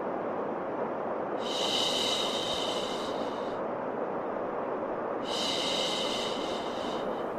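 Steady white noise with a long shushing 'shhh' laid over it twice, each lasting about two seconds.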